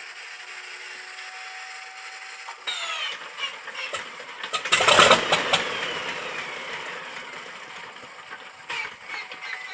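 Start attempt on an An-2's nine-cylinder ASh-62IR radial engine. The inertia starter's flywheel whines steadily, then engages about three seconds in with a falling whine as the engine is cranked. Around five seconds in there is a brief loud burst of firing, and then the sound winds down with a falling whine and a few clicks rather than settling into a steady run.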